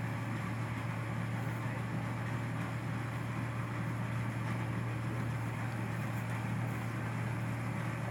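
Rice combine harvester's engine running steadily, a constant drone with no change in speed.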